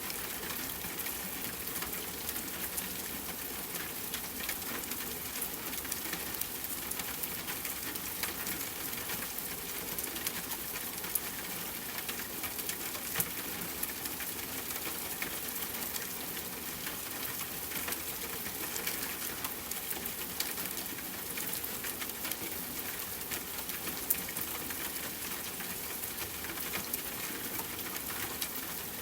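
Steady rain falling, an even hiss of many drops with small patters and ticks through it.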